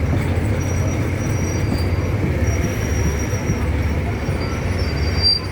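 Train running across the bridge: a steady low rumble, with faint high-pitched tones now and then.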